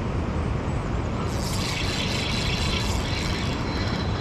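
Steady roar of a big waterfall, rushing water heavy in the low end at an even level. About a second in, a higher hiss joins it.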